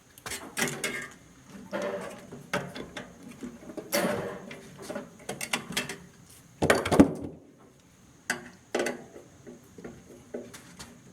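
Irregular knocks, clicks and scrapes of metal parts and hand tools being handled while a microwave oven is taken apart, the loudest clatter about seven seconds in.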